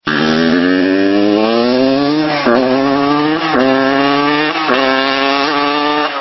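Dirt bike engine accelerating hard through the gears: its pitch climbs, drops at each of three upshifts about a second apart, and climbs again after each.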